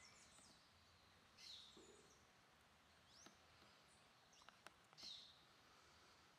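Faint outdoor ambience with a few short, high bird chirps, mostly quick downward sweeps, heard about three times.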